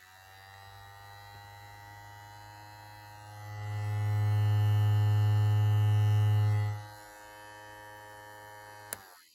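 Small 3D-printed model of an ACA Hurricane siren, motor-driven, sounding a steady multi-tone note that rises slightly at first. A louder low hum swells in for about three seconds in the middle. Near the end a click cuts the sound off.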